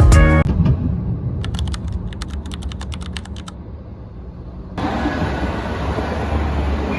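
Background music cuts off, then low hum with a quick run of about a dozen light clicks, like typing. About two-thirds of the way in, a steady rushing noise with a low rumble starts abruptly.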